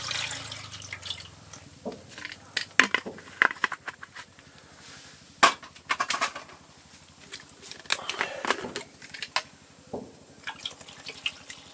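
Something being poured into a large cooking pot for rice, with a splashing pour at the start, then scattered clinks, knocks and rattles of the pot and container being handled.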